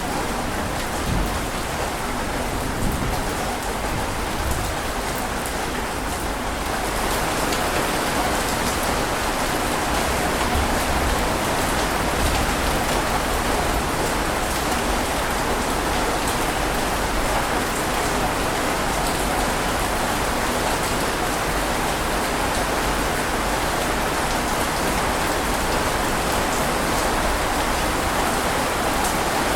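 Steady rain falling, an even hiss that grows a little heavier about seven seconds in.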